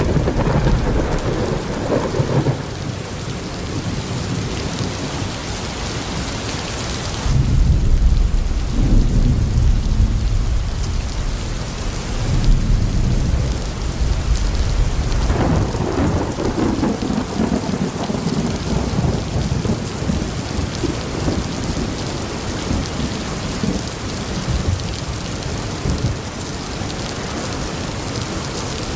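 Steady heavy rain with thunder rumbling low several times, the longest and loudest roll starting about seven seconds in and another about fifteen seconds in.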